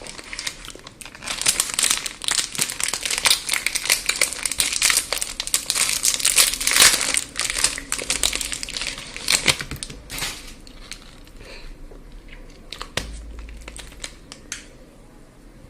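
Packaging of a chocolate bar being crinkled and crumpled close to the microphone, densest during the first two-thirds and thinning to scattered crackles near the end.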